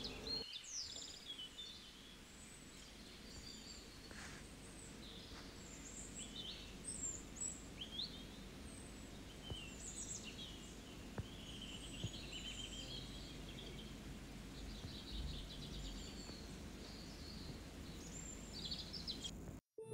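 Birds chirping and calling in the background: many short, high chirps and quick whistled sweeps overlapping throughout, over a faint steady hiss of ambient noise.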